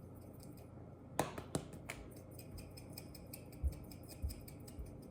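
Black pepper being ground over the potatoes: two sharp clicks about a second in, then a quick run of dry, even ticks from the grinder for about three seconds.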